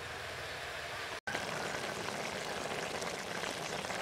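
Straw mushrooms and pork sizzling in a metal wok. After a brief break in the sound about a second in, the juices in the wok bubble and hiss at a steady simmer, a little louder than before.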